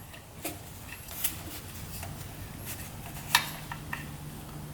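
A few sharp metallic clicks and clinks of hand tools being picked up and handled while looking for a 6 mm socket, the loudest about three seconds in, over a low steady hum.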